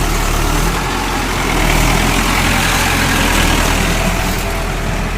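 Heavy diesel engine running steadily, with a low even hum under a broad mechanical clatter.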